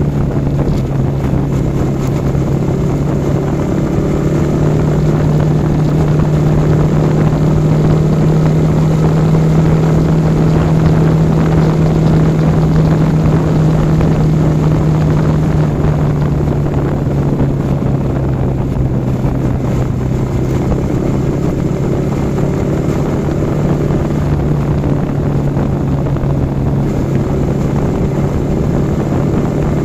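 Yamaha R15 V4's single-cylinder engine running steadily while riding at highway cruising speed, with a continuous drone whose pitch drifts slightly lower in the second half. Wind rushes over the microphone.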